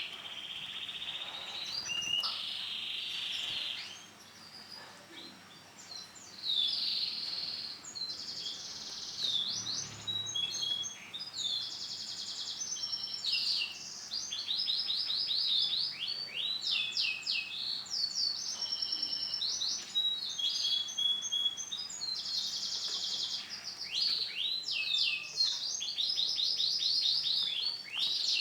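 Domestic canary singing: a long, continuous run of rapid trills and chirped phrases, with a short break about four seconds in.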